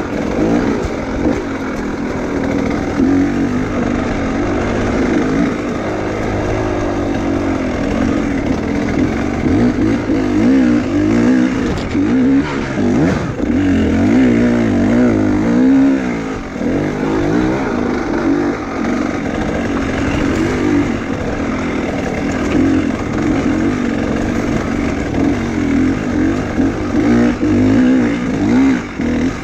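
Dirt-bike engine running hard and continuously, its revs rising and falling constantly as on a rough enduro trail.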